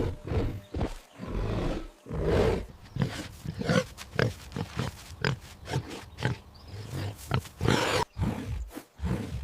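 An animal grunting again and again in short, rough calls.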